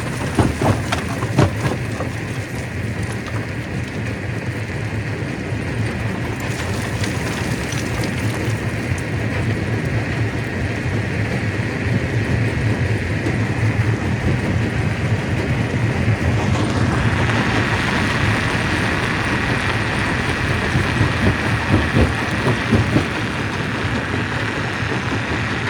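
Stone crusher machine running: a steady low drone under dense grinding noise, with scattered knocks near the start. About two-thirds of the way in, a higher steady tone joins.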